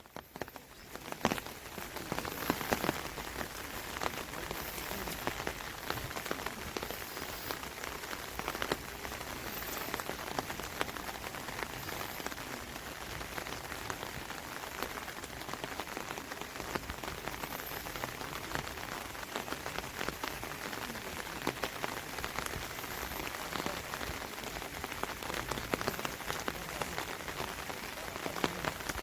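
Steady rain falling: a dense, even patter of many drops.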